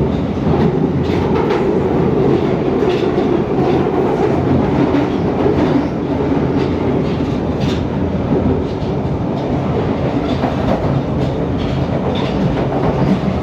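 London Underground Northern line 1995 Stock tube train running at speed through a tube tunnel, heard from inside the carriage: a loud, steady rumble with the wheels clicking over rail joints.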